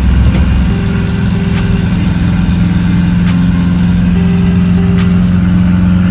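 Chevrolet El Camino's 305 V8 running steadily through its new exhaust at a constant speed, a steady low drone with no revving.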